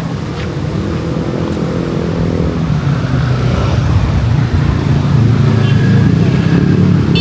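Road traffic: engines of passing motor vehicles running, growing louder toward the end.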